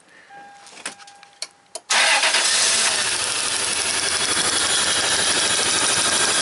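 1996 Toyota 4Runner's V6 engine catching and starting abruptly about two seconds in, then running loudly and steadily. Cylinder 2's plug wire is pulled off onto a test light, so that cylinder is not firing; its spark is shorting to the coil housing. Before the start there are faint clicks and a steady tone.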